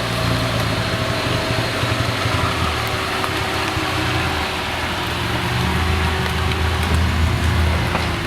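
Off-road 4x4 vehicle engine running, its low note shifting up and down under load, over a steady rushing noise. The engine note drops lower and grows louder about five and a half seconds in.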